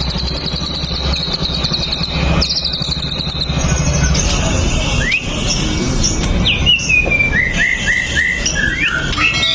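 White-rumped shama singing: in the first half, short high trilled phrases repeated one after another; from about five seconds in, a varied run of whistled sliding notes, including a quick series of short falling notes near the end.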